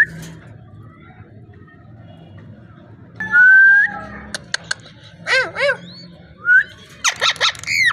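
Parrot whistling and calling: a held whistle, a few sharp clicks, then arching warbled whistles and a quick run of calls near the end.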